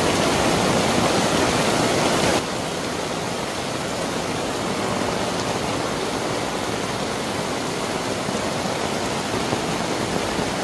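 Heavy downpour: rain pouring onto a tent and an umbrella, with runoff streaming off their edges, a dense steady hiss. It is louder for the first two seconds or so, then drops suddenly and stays even.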